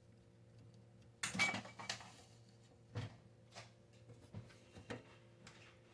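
Handling noise from faucet installation work: a short clatter about a second in, then a few scattered knocks and clicks of parts and tools being moved.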